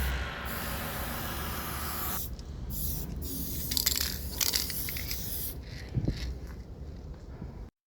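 Aerosol spray-paint can hissing: a steady spray for about two seconds, then several short spurts, with a dull knock about six seconds in. The sound cuts off abruptly near the end.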